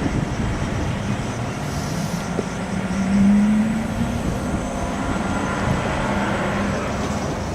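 A heavy truck on the move: steady road and drivetrain rumble with a low hum that swells briefly about three seconds in.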